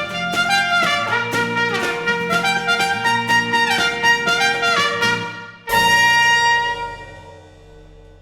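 Small brass ensemble led by trumpet playing a lively tune with moving melodic lines, then, after a brief break, striking one loud final chord that rings and fades out.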